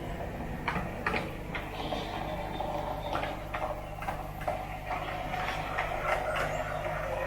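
N gauge model train running on the layout: a steady low hum with irregular sharp clicks, about one or two a second.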